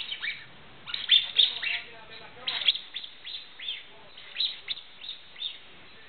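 A young sparrow chirping: a run of short, sharp, downward-sliding chirps, some in quick clusters, that stops about five and a half seconds in.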